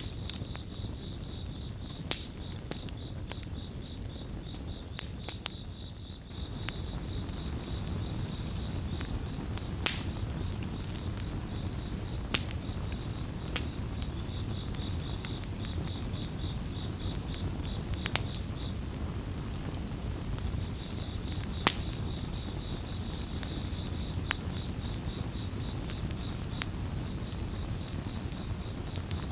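Campfire crackling: a steady low rush of burning with sharp pops scattered through, the loudest pops standing out every few seconds. Over it, crickets chirp in a continuous high trill that breaks off briefly about two-thirds of the way in.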